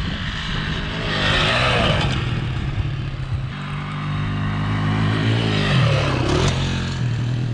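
Dirt bike engine running, its pitch shifting a few times with the throttle.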